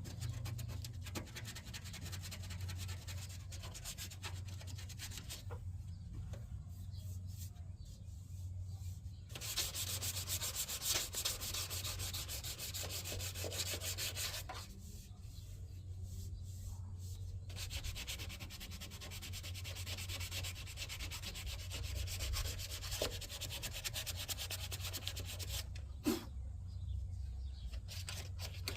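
Sandpaper rubbing over body filler on a car's engine bay, in stretches of rapid scratchy strokes broken by two short pauses. A steady low hum runs underneath.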